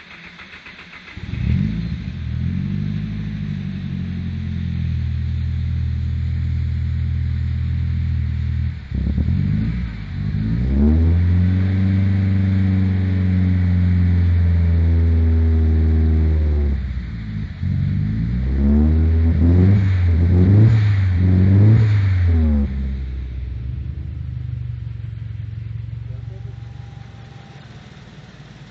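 Turbocharged SR20DET 2.0-litre four-cylinder engine of a Nissan 200SX being revved. It comes up sharply about a second in and is held at steady engine speeds, with one higher hold, then is blipped about four times in quick succession before dropping back toward idle and fading near the end.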